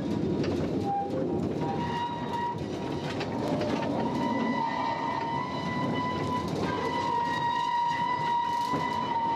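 Narrow-gauge mine railway train running along its track. Wheels rumble, with scattered clicks, and a steady high whine runs throughout.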